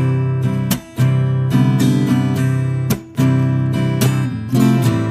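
Acoustic guitar strumming chords, the song's instrumental intro, with brief breaks between phrases about a second and three seconds in.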